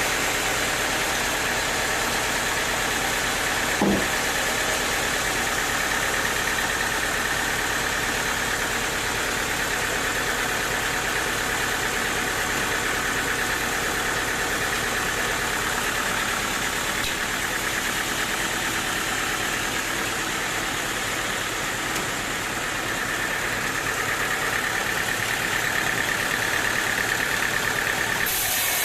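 Sawmill machinery running steadily, an engine-like drone with a constant high hum, and one short knock about four seconds in.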